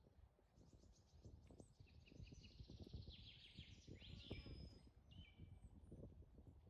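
Small birds chirping in quick runs, busiest in the middle, over faint low rustling as cord is handled among branches.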